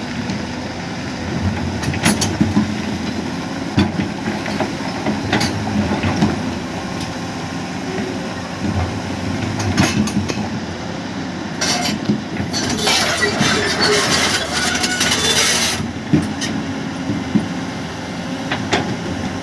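Heavy construction machinery's diesel engine running steadily, with scattered clanks and knocks, and a loud rushing hiss lasting about three seconds a little past the middle.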